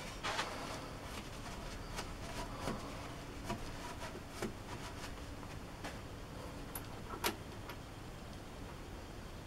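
Irregular light clicks and knocks of small metal parts being handled, about a dozen over several seconds, the sharpest clink about seven seconds in.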